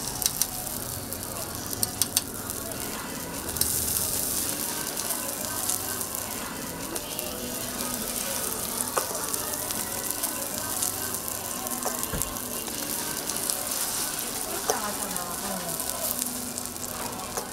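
Food sizzling on a hot flat-top griddle, the sizzle growing louder about three and a half seconds in, with a few sharp clicks in the first two seconds.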